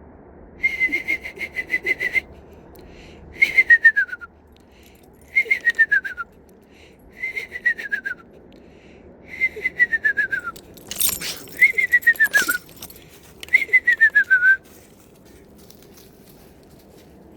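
A person whistling an imitation of a screech owl call: first a steady, quavering trill on one pitch, then six quavering whinnies that each slide down in pitch. A short rustle cuts in about eleven seconds in.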